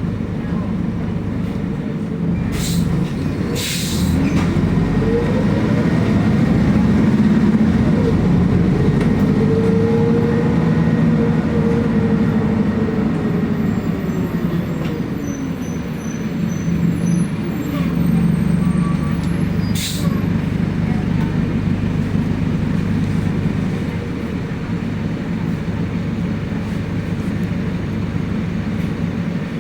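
City bus running, heard from inside the vehicle: a steady low engine hum whose pitch rises and then falls over about ten seconds as the bus accelerates and eases off. A few short, sharp clatters or hisses come near the start and about two-thirds of the way through.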